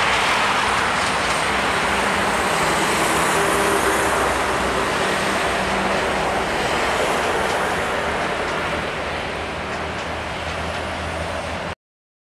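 Passenger train running away over the rails: a steady rolling noise of the coaches on the track, slowly fading as it recedes, then cut off suddenly near the end.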